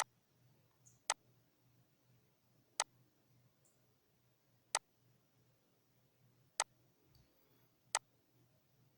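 Computer mouse clicking, about six single sharp clicks spaced a second or two apart while line points are placed in a CAD sketch, over a faint low hum.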